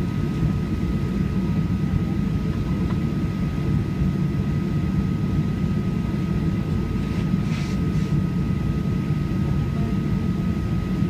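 Boeing 737-800's CFM56 engines heard from inside the cabin: a steady, loud low rumble with a constant thin whine. A short faint hiss comes about seven and a half seconds in.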